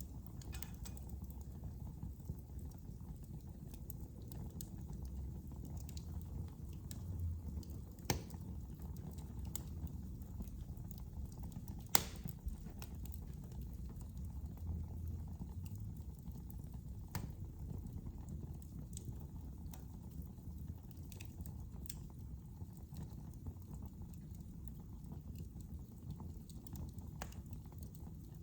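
Fire burning in a fireplace: a low steady rumble of flames with scattered crackles and pops, the two sharpest about eight and twelve seconds in.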